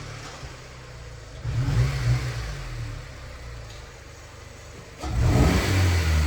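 Car engine revving in three surges, about one and a half seconds in, again near the end and louder there, with a lower running sound between them.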